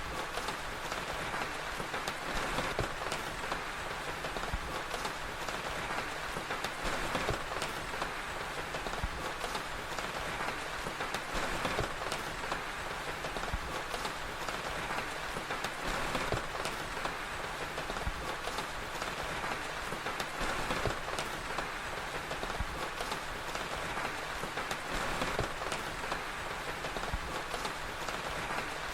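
Steady rain falling, with many small scattered crackles mixed in, as from a wood fire, in an even, unbroken ambience.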